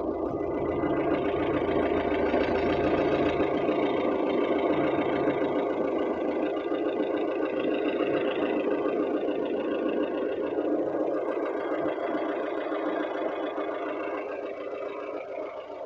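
Lada Kalina's four-cylinder engine running steadily at idle; it grows quieter over the last couple of seconds.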